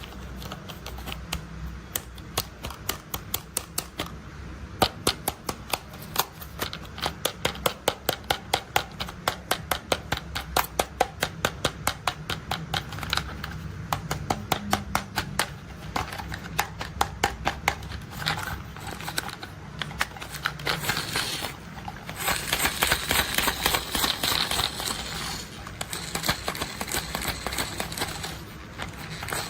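Rapid clicking and clacking of a plastic toy construction vehicle being worked, several clicks a second over a low steady hum, thickening into a denser rattle about three-quarters of the way through.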